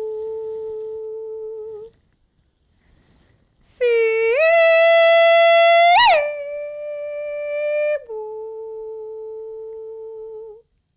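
A trained female classical voice singing without accompaniment and without words. It holds a long steady note, pauses, slides up to a higher note and holds it, flicks sharply up and back around the middle, then settles onto lower sustained notes.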